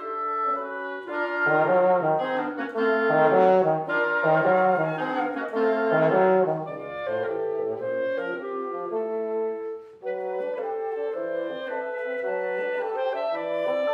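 Wind quintet of flute, oboe, clarinet, horn and bassoon playing, several lines moving together in sustained notes. The ensemble plays fuller and louder in the first half, breaks off for a moment about ten seconds in, then goes on more lightly.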